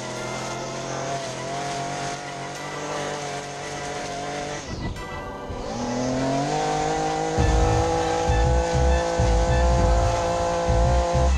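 Commercial riding lawn mower's engine running steadily while mowing. About five seconds in its pitch dips briefly, then climbs and holds higher, and a few seconds later a heavy, uneven low rumble joins it.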